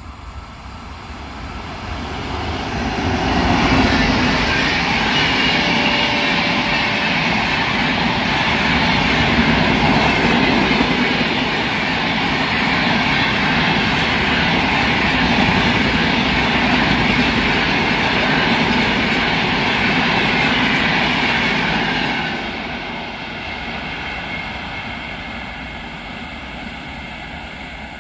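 Electric-hauled Indian Railways express train passing at speed: a steady noise of wheels and coaches on the track. It builds over the first few seconds, holds, and eases off somewhat near the end.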